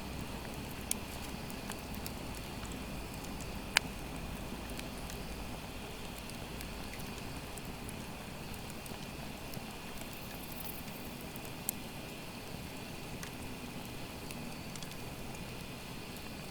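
Wood fire burning, a steady hiss with scattered crackles and a few sharp pops, the loudest about four seconds in.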